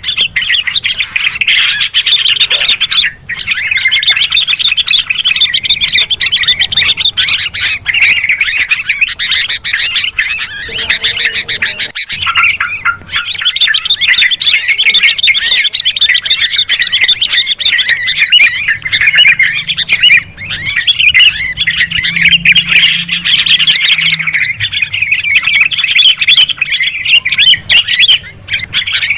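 Bulbuls chattering noisily and without pause, a dense mix of yellow-vented bulbul and sooty-headed bulbul calls.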